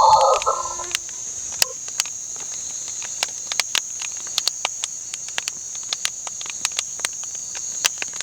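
Steady high-pitched insect chorus, like crickets, with many scattered sharp clicks. A louder rough sound fades out within the first second.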